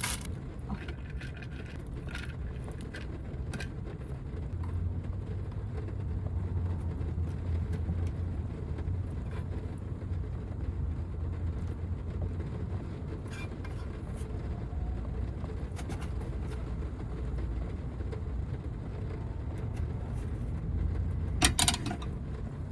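Rain drumming on a Toyota Hiace van's roof, heard inside the cabin as a steady low rumble that swells for several seconds. A few light clicks sound over it, and a brief clink comes near the end.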